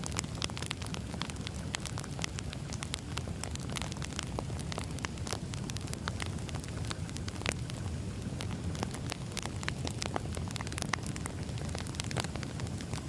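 Burning firewood crackling, with many irregular sharp pops and snaps over a steady low rumble of the flames.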